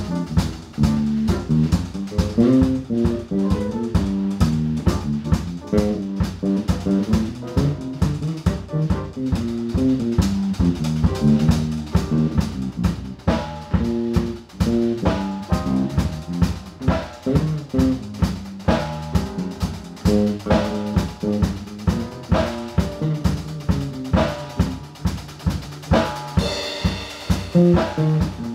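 Live jazz combo playing, the drum kit prominent with busy snare, rimshot and bass-drum hits over bass and piano.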